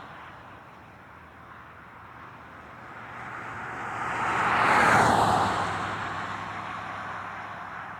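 A single road vehicle passes close by, its tyre and engine noise swelling to a peak about five seconds in, dropping in pitch as it goes past, then fading away. The tail of an earlier passing vehicle dies away at the start.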